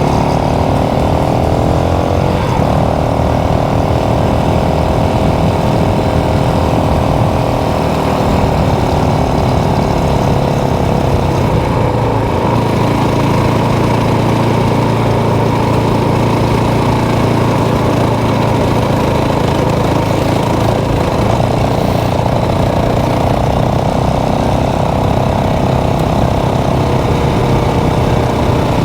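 A 450 cc motorcycle engine running while riding, its pitch dropping over the first few seconds, then holding fairly steady with a shift about twelve seconds in as the throttle changes.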